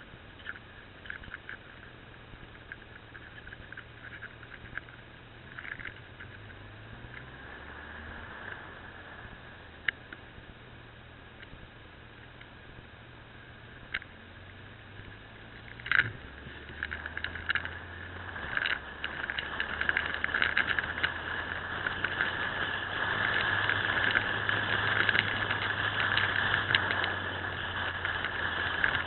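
Motorcycle engine running steadily on a ride, its low hum shifting in pitch a few times with changes of speed, under crackling rattle and rushing noise with a few sharp clicks. The noise grows louder over the last ten seconds.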